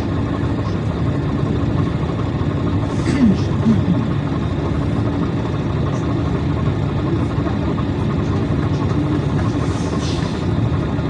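Steady drone of a PAZ Citymax 9 city bus's engine and running gear, heard from inside the passenger cabin.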